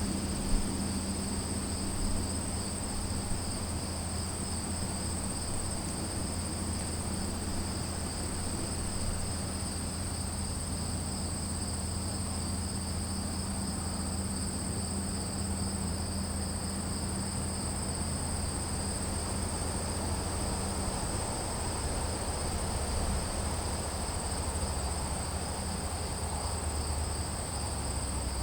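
Insects trilling nonstop in two steady high-pitched bands, like a chorus of crickets. A steady low hum and rumble sits underneath, with a brief knock about half a second in.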